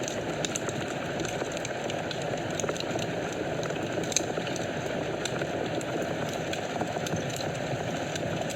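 Fire burning in a fireplace: a steady low rush of flames with frequent small crackles and pops, one sharper pop about four seconds in.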